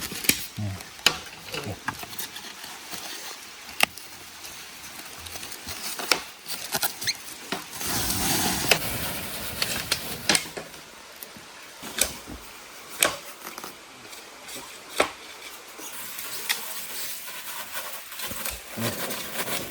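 Irregular sharp knocks and cracks of bamboo being handled and worked, with a louder rustling rush about eight seconds in.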